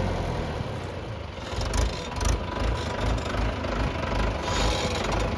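Tractor engine running with a low, pulsing chug.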